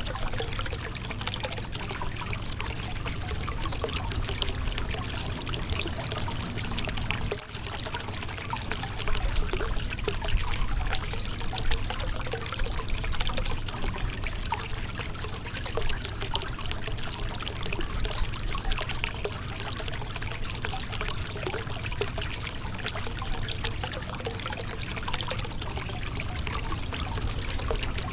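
River water flowing over a rocky bed: a steady rush of water trickling and pouring between stones.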